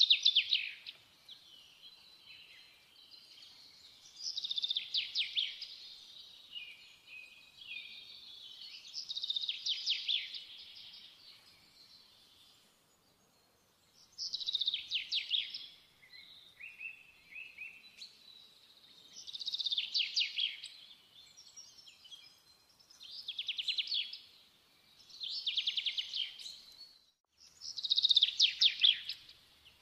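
A songbird singing: about eight short, fast trilled phrases, high-pitched, repeated a few seconds apart.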